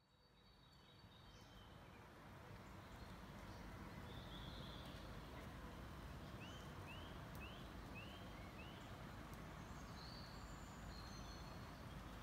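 Garden birds calling over a steady, quiet background hiss and low rumble, with a run of five short upward-sweeping calls, about two a second, midway and a few scattered high chirps.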